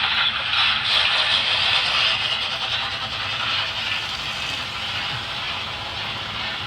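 Two Trix HO-scale steam locomotive models running forward on the track, making a steady running noise that slowly grows quieter.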